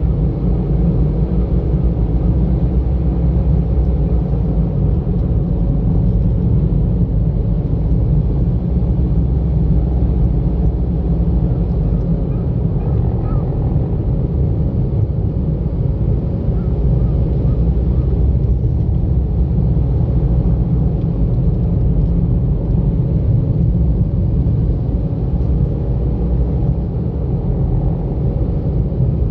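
Steady low rumble of a car driving along, engine and tyre noise at an even pace.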